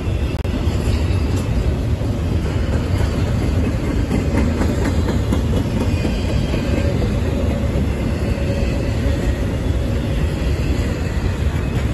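Norfolk Southern double-stack intermodal train rolling past: a steady rumble of steel wheels on rail from the loaded container well cars, with a few clacks around the middle.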